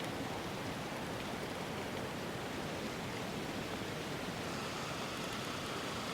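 Steady, even hiss of an ambient soundscape with no distinct events; a faint thin high tone joins about four and a half seconds in.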